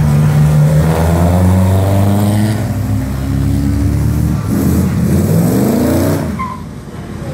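Classic sports car engine accelerating hard. Its pitch climbs once early on, then climbs again more steeply, before it lets off shortly before the end.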